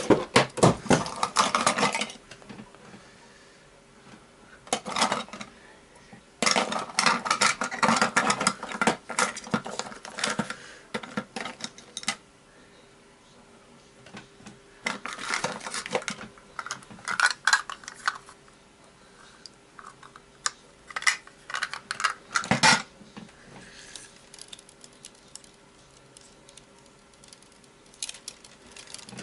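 Small plastic and metal parts and hand tools clicking and clattering on a hard surface while a toy RC helicopter is taken apart. The noise comes in several bursts of rapid clicks with quieter gaps between them.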